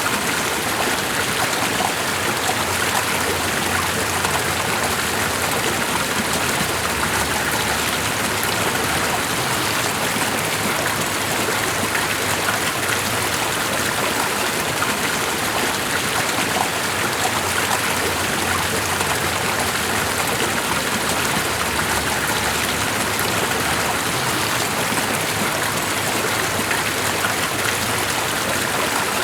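Steady, even rush of running water, with no breaks or changes.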